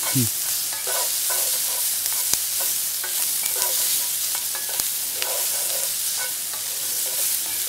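Diced squash and onions sizzling in a hot skillet, with a steady hiss, while a wooden spoon stirs them in repeated scraping strokes against the pan.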